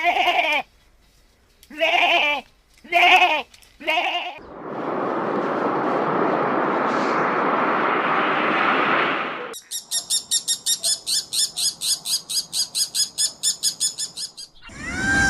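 Four short bleats from a goat or sheep in the first four seconds. Then about five seconds of steady rushing noise, then a fast run of high, chirp-like pulses, about five a second, that stops shortly before the end.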